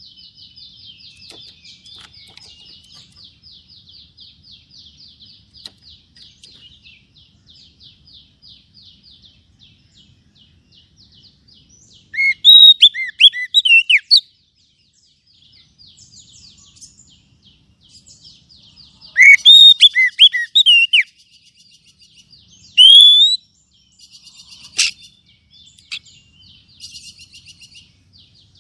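Oriental magpie-robin calling: a long, soft, rapid rattling churr, broken by loud bursts of rich whistled notes about twelve and nineteen seconds in and a shorter one near twenty-three seconds.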